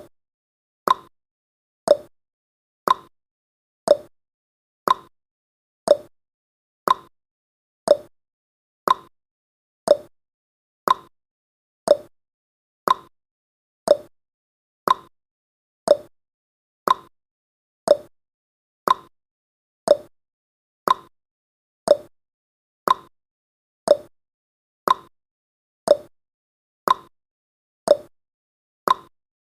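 Countdown timer's ticking sound effect, one short, sharp tick every second.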